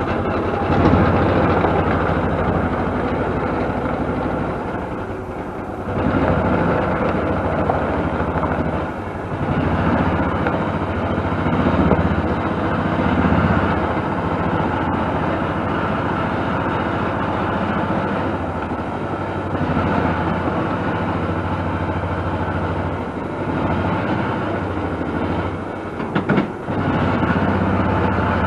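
Engine of a plow-equipped vehicle running at low speed as it is backed in, its level rising and falling with the throttle, with a few sharp clatters near the end.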